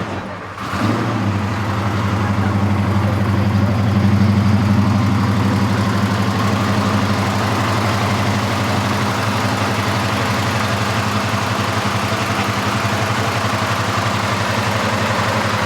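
Car engine that comes up about a second in and then idles steadily with a low, even hum.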